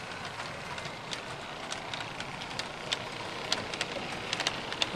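Long model freight train pulled by six Aristo-Craft RS-3 locomotives rolling along the track: a steady rolling hiss of many wheels with frequent irregular sharp clicks.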